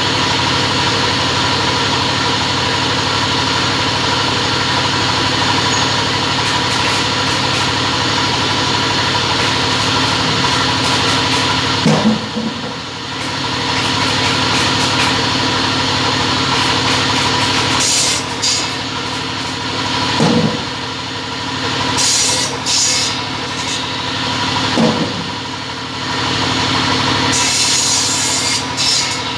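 Two-head cutting machine running with a steady mechanical hum. In the second half the sound dips several times, and short bursts of high hiss come over it.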